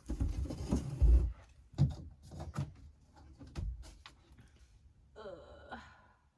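Dinette parts being shifted and pulled apart inside a small motorhome: scraping and handling noise with a heavy thump about a second in, then several sharp knocks, and a short pitched sound near the end.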